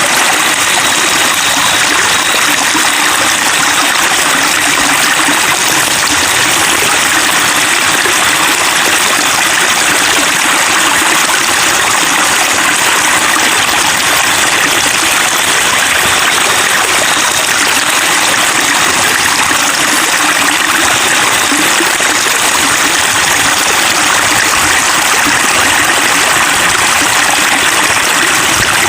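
Babbling, trickling flowing water, steady and unbroken.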